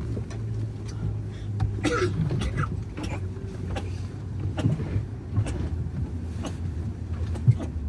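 Airliner cabin after landing: a steady low hum from the aircraft with scattered clicks and knocks and a brief voice about two seconds in, as passengers move about with the seatbelt sign off.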